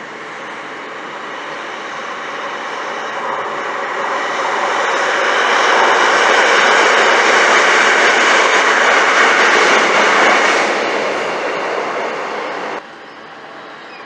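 A train passing on the line, its noise building to a peak past the middle, then easing and cutting off suddenly near the end.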